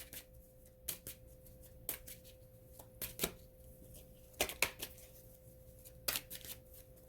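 A deck of tarot cards being shuffled and handled by hand: a scatter of short, crisp card snaps at irregular intervals. A faint steady hum runs underneath.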